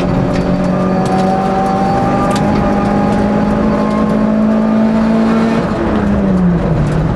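Hill-climb racing car's engine heard from inside the cabin, held at high revs with its pitch slowly climbing for about five seconds. Near the end the revs drop and dip as the driver lifts off, then pick up again.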